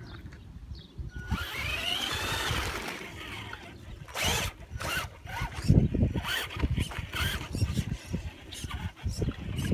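Electric motor of a radio-controlled car whining as it revs up and down, followed by repeated knocks and thumps as the car drives over rough muddy ground. Only the rear wheels are driving; the four-wheel drive has failed.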